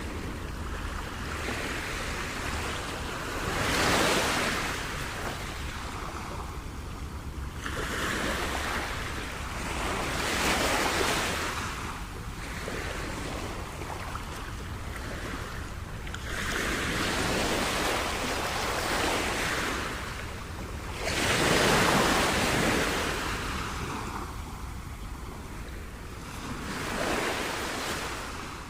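Ocean waves washing in, the surf swelling and falling back every five or six seconds over a steady low rumble.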